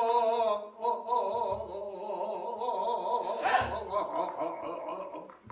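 Male pansori singer holding a long, wavering sung vowel, accompanied by two low strikes of a buk barrel drum.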